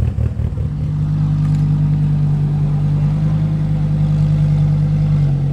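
Car engine running: an uneven, pulsing note for about the first second, then a steady held note.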